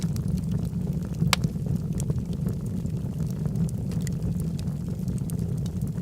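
Logs burning in a fireplace: a steady low rumble with scattered sharp crackles and pops, one louder pop about a second in.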